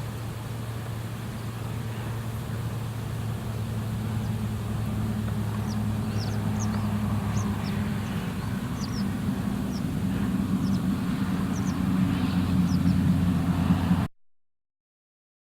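A motor vehicle's engine running with a steady low hum that grows louder, while small birds give short high chirps from about six seconds in. The sound cuts off suddenly near the end.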